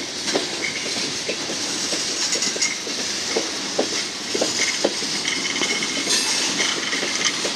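Freight cars rolling past, their steel wheels clacking irregularly over the rail joints over a steady rushing hiss, with brief high-pitched wheel squeals now and then.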